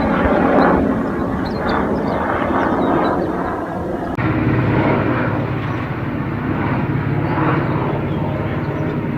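Tour helicopter flying low overhead, its engine and rotor noise loud and steady. The sound cuts abruptly about four seconds in to another helicopter pass of the same kind.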